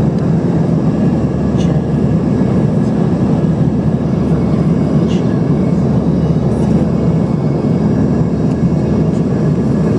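Steady low roar of an airplane in flight heard from inside the passenger cabin: engine and airflow noise, with a few faint ticks.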